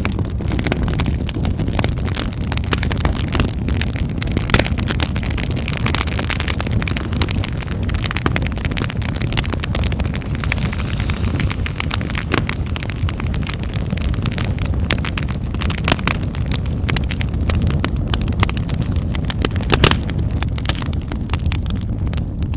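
Wood fire in a fireplace crackling, with many sharp pops and snaps over a steady low rumble of burning.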